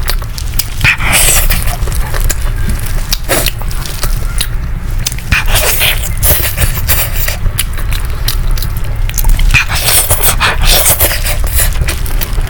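Close-miked chewing and biting, a run of wet clicks and smacks.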